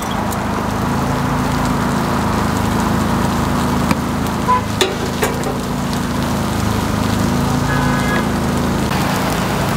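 Takoyaki frying on a hot griddle: a steady sizzling hiss over a low hum, with a few sharp clicks about four to five seconds in.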